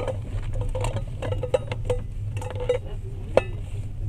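Inside a moving passenger train carriage: a steady low running rumble, with scattered clicks and short squeaky creaks from the carriage, and a sharp click about three and a half seconds in.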